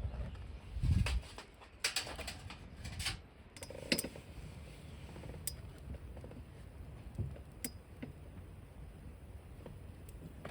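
Scattered clinks, knocks and clicks of camp cookware and utensils being handled and set down, with a dull thump about a second in, as food is readied for cooking.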